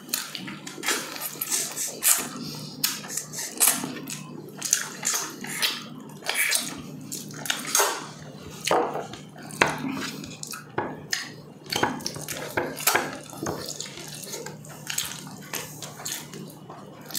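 Close-up wet eating sounds: chewing and lip-smacking on soft braised pork leg, with a steady stream of irregular mouth clicks and smacks.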